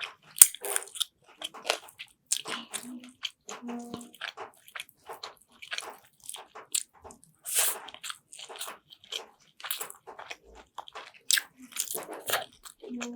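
Close-miked eating sounds of chicken afritada being chewed: irregular wet chewing and smacking with crunchy bites.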